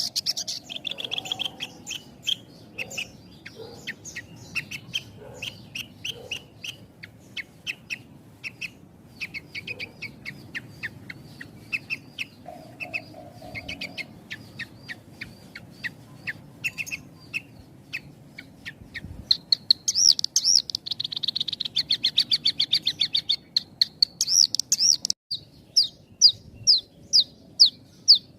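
Javan bush lark (branjangan) singing a fast, unbroken song of quick chirps and trills. The notes come thicker and louder in a trilled run about two-thirds of the way through, then break into quick repeated notes near the end.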